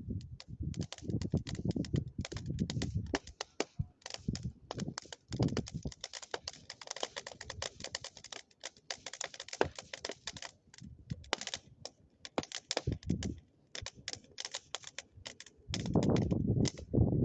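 Bonfire crackling and popping, a dense irregular run of sharp clicks, with a low rumble that comes and goes and is loudest near the end.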